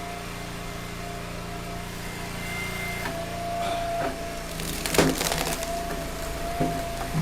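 Engine-driven log splitter running steadily while a firewood round is split: a few knocks, then a loud splintering crack of the wood about five seconds in, followed by a couple of smaller knocks.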